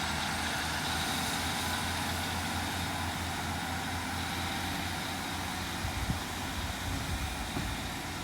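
Diesel train engine running steadily with a low hum, with a few light knocks in the second half.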